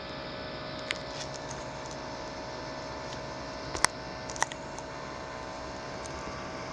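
Worn-out laptop CPU cooling fan running with a steady whirring hiss and a steady hum-like tone. A few sharp clicks or ticks sound about a second in and twice around the middle.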